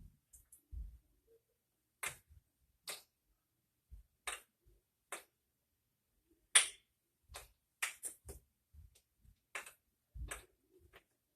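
Wooden kendama ball clicking against the kendama's cups and edges as the trick is played. The sharp clicks come irregularly, about two a second, from about two seconds in, with the loudest one about six and a half seconds in.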